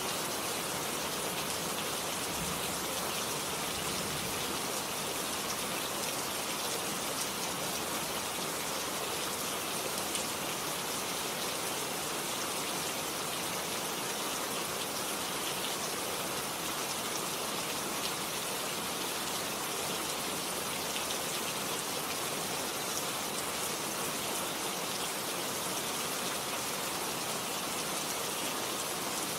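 Steady, heavy rain: an even hiss of falling water dotted with countless small drop ticks, holding level throughout.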